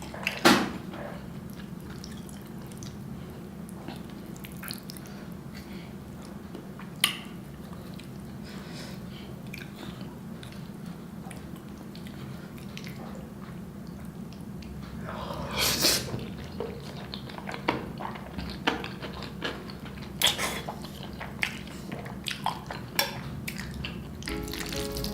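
Someone eating close to the microphone: chewing with scattered sharp clicks and knocks of cutlery and dishes, busier in the second half, over a steady low hum.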